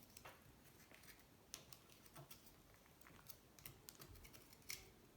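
Faint, irregular light clicks and taps of small metal parts and tools being handled on a motorcycle engine case.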